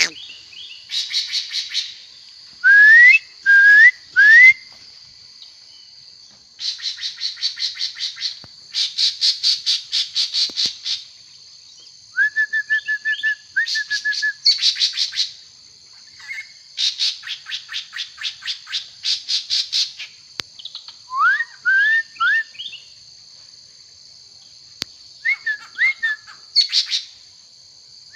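A songbird singing: bouts of fast, buzzy trills a second or two long alternate with short upward-sliding whistles, some of them in quick runs of three. A steady high-pitched whine runs underneath.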